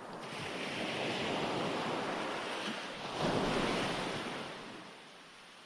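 Recorded ocean waves washing onto a shore: one swell builds and holds, a second breaks about three seconds in, and the wash fades away near the end.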